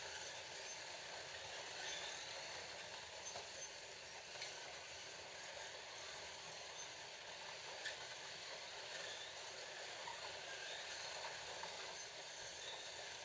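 Scalextric slot cars running laps on plastic track: a steady whir of the small electric motors and pickup guides, with a few faint clicks.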